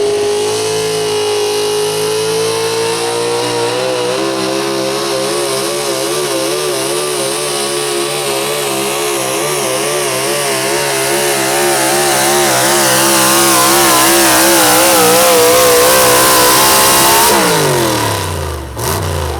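Super stock 4x4 pulling truck's engine under full load during a pull. It revs up at the start and holds high with a wavering, bouncing pitch, then drops off sharply near the end as the throttle is released.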